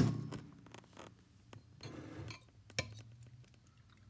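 A fork beating eggs in a bowl, clinking and scraping against the bowl in irregular knocks, the sharpest one right at the start.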